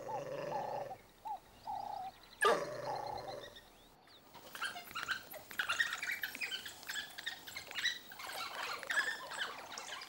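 African wild dogs calling: a series of short pitched hoots in the first few seconds, with a louder yelp about two and a half seconds in, then a long run of rapid high twittering chirps.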